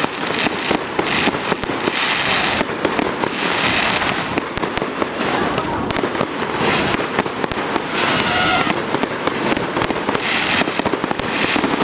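Aerial fireworks display: a dense, unbroken barrage of bangs and crackling shell bursts.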